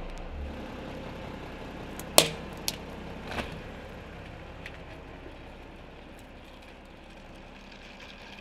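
Car engine idling low and steady, with one sharp crack about two seconds in and two fainter clicks within the next second or so.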